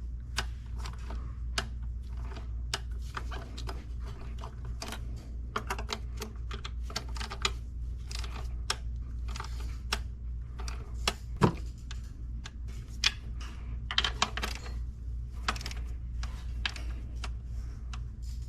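Ratcheting torque wrench clicking in irregular runs as intake manifold bolts are tightened. A steady low hum runs underneath.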